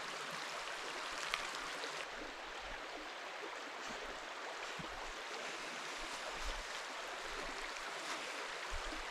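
Steady rush of a small mountain stream, with a few faint light clicks over it.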